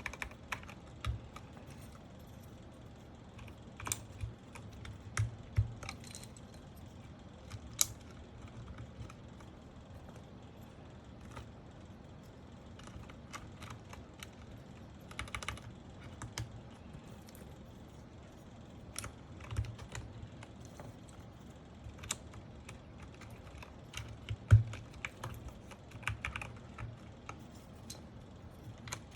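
Sparse, irregular clicks and light knocks from mechanical keyboard parts being handled during assembly, with one louder knock near the end.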